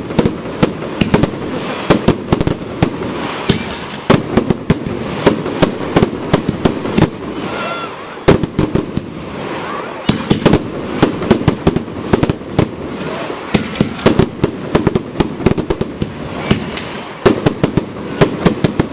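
Fireworks display going off in rapid succession: many sharp bangs and crackles, several a second, thinning briefly about eight seconds in. Crowd voices run underneath.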